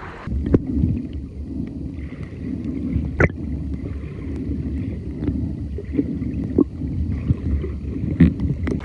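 Muffled sea water sloshing and gurgling around a camera held in the water by a snorkeller, with a few sharp clicks and knocks scattered through it.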